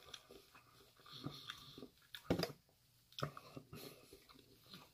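A person chewing a mouthful of food close to the microphone: soft wet mouth sounds with a few sharper clicks, the loudest about halfway through.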